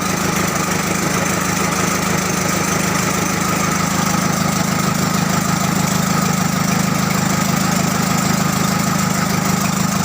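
Komatsu engine running steadily at idle.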